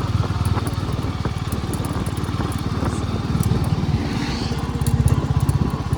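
Royal Enfield Classic 350's single-cylinder engine running at a steady riding pace with its even, rapid thump of firing pulses, a little louder about five seconds in.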